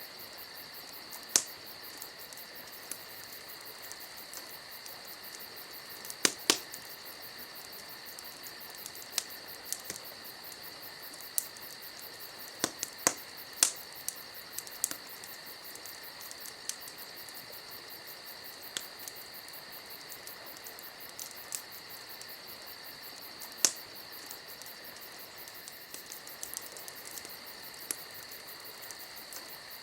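Campfire crackling, with sharp, irregular pops and snaps every few seconds, over a steady high chirring of crickets.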